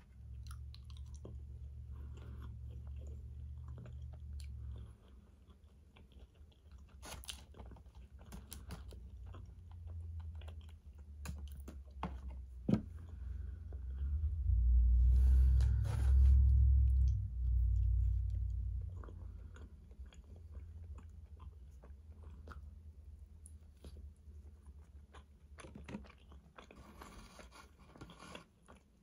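Close-miked chewing and biting of fried chicken and fries, with scattered crunches and wet mouth clicks. A louder low rumble swells for a few seconds around the middle.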